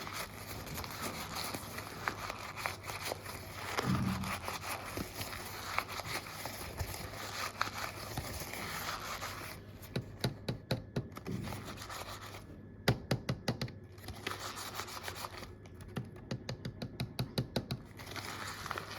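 Scratching and rubbing for the first half, then runs of sharp key taps: a quick burst about halfway through, a very rapid run a little later, and a steadier run of taps near the end.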